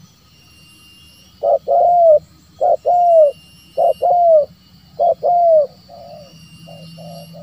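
Spotted dove cooing: four loud phrases, each a short note followed by a longer arched coo. A quieter run of short, quick notes follows near the end.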